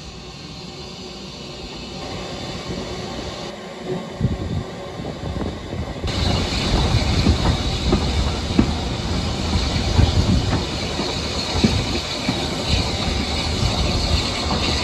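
A train running along the track, heard from on board a carriage: a steady rumble with irregular knocks of the wheels over the rails. It grows louder over the first few seconds, then stays loud.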